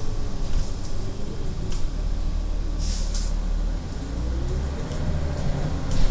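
City bus under way, heard from inside: steady engine rumble with a drivetrain whine that rises and falls, light rattles, and a short hiss about three seconds in.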